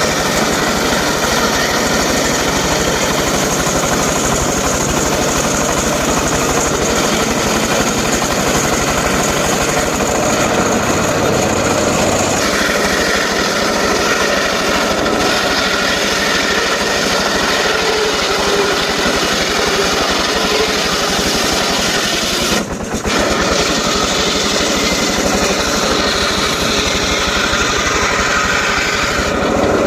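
Engine-driven saw running steadily while cutting mahogany. Its sound changes about twelve seconds in and drops out for a moment about three quarters of the way through.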